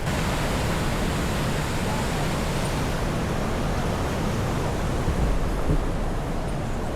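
Steady rushing noise of surf and wind, with a heavy low rumble.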